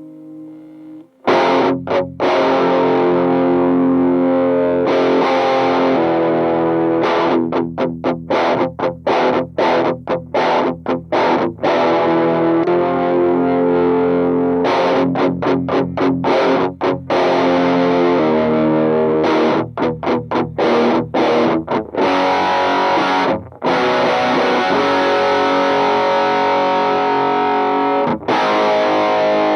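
Distorted electric guitar played through a Mooer Pitch Box pitch-shifter/detune pedal. It plays a rock riff of ringing chords broken up by quick choppy stops, starting loud about a second in.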